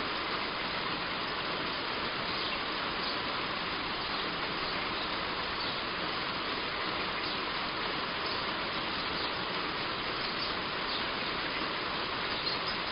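Heavy rain falling steadily on a roof, an even hiss with faint scattered drop taps.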